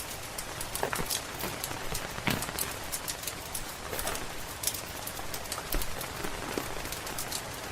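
Steady rain hiss with frequent sharp crackles and pops from a wood fire in a fireplace.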